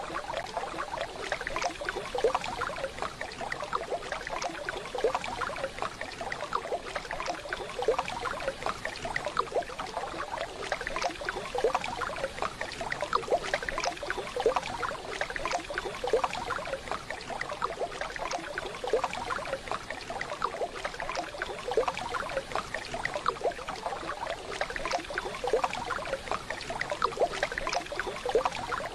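Waterfall: water rushing and splashing steadily, with many small splashes.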